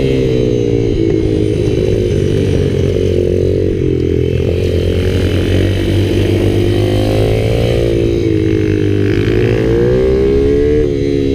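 Kayo minibikes' small single-cylinder engines running hard, the revs rising and falling as the riders accelerate out of corners and back off into them.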